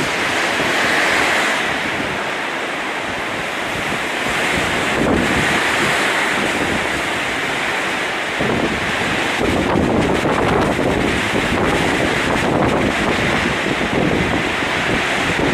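Heavy downpour in a storm: a dense, steady rush of rain with strong gusting wind that swells and eases every few seconds and buffets the microphone with low rumbles.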